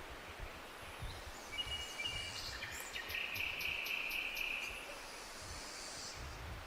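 A bird sings a high, clear call with a quick ticking trill from about a second and a half in to just past the middle. Under it runs a steady hiss of forest ambience with a faint, uneven low rumble.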